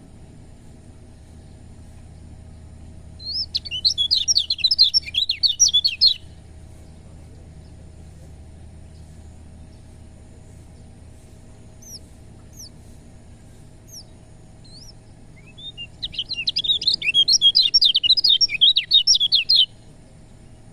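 Kecial kuning white-eye singing: two bursts of fast, high chattering song a few seconds each, with a few single short thin calls in the gap between them. A faint steady low hum lies underneath.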